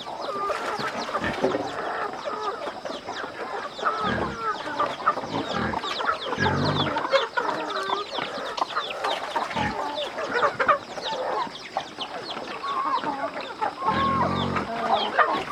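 A flock of chickens clucking and cheeping steadily, many short overlapping calls, with a few low grunts now and then.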